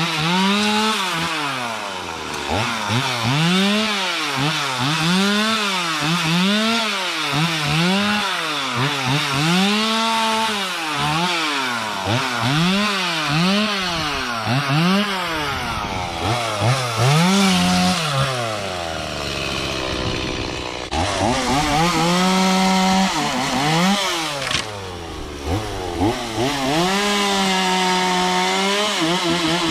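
Handheld Stihl two-stroke power tool cutting brush. Its engine revs up and drops back about once a second, over and over. After about twenty seconds it is held at high revs for longer stretches, with brief dips.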